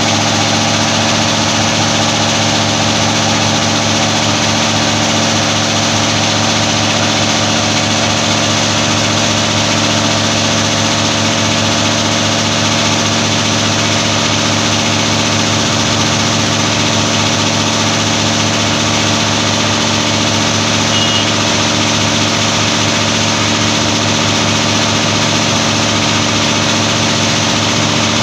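Window air conditioner running with its compressor switched on: a loud, steady mechanical hum with a constant low drone and an even rush of noise over it.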